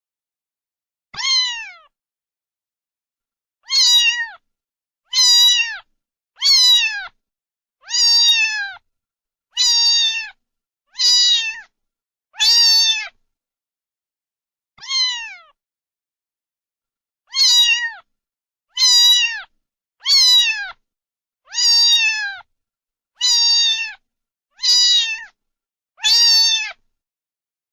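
A domestic cat meowing over and over: about sixteen short, near-identical meows, each dropping in pitch at the end, separated by dead silence.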